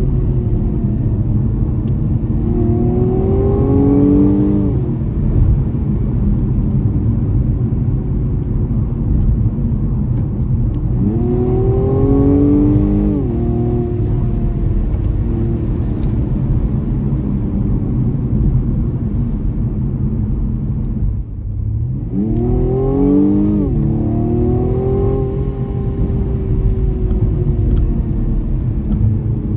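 BMW M135i's 2-litre turbocharged four-cylinder engine heard from inside the cabin under hard acceleration. The revs climb and drop sharply three times as it shifts up, over a steady low engine and road drone.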